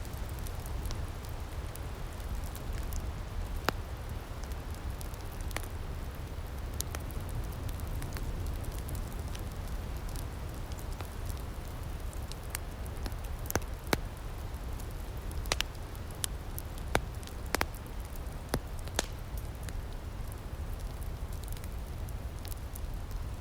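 Wood fire in an outdoor firepit crackling, with irregular sharp pops over a steady low rumble.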